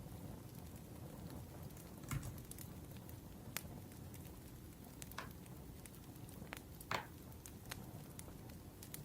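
Wood fire crackling, with a few sharp irregular pops over a steady low hiss.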